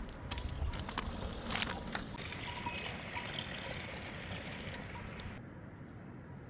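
Water trickling, with a few faint clicks; the higher part of the hiss stops abruptly about five seconds in.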